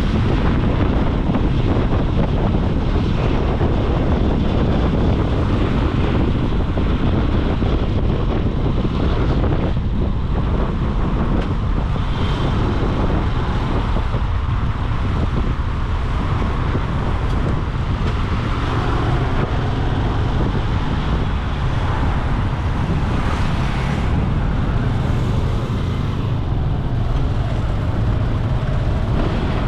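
Ride noise from a moving motorcycle: steady wind buffeting on the microphone over the engine's running and the noise of road traffic.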